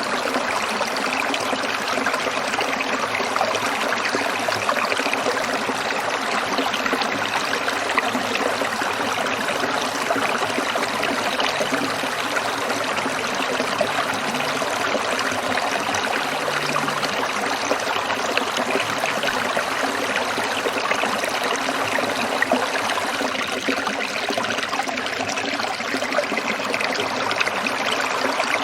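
Stream water trickling and babbling over rocks, a steady, dense splashing without break.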